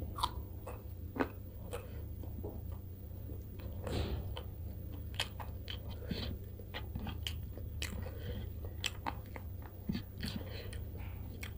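Close-miked chewing and biting of a mouthful of fish curry and rice: many short, sharp wet clicks and smacks of the mouth, with a few crunchy bites.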